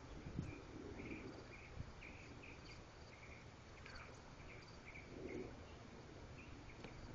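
Faint outdoor insect chirping: short, fairly high chirps repeating about twice a second over a low background hiss.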